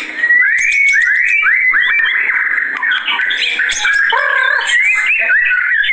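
White-rumped shama (murai batu) singing without pause: a fast run of rising whistled notes, the bird fired up and singing at full intensity.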